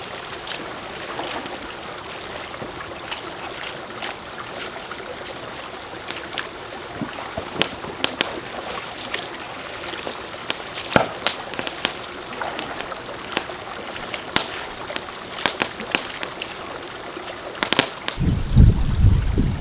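Mountain stream running: a steady rush of water with frequent short, sharp clicks and splashes through it. Near the end, wind starts buffeting the microphone with a loud low rumble.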